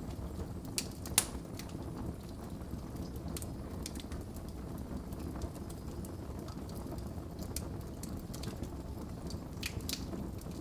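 Wood fire burning in a fireplace: a steady low rumble of flames with scattered sharp crackles and pops, the loudest about a second in.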